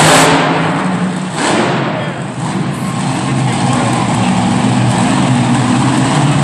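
Monster truck engine running loudly, with a sharp surge of revs at the start and another about a second and a half in, then a steady hold.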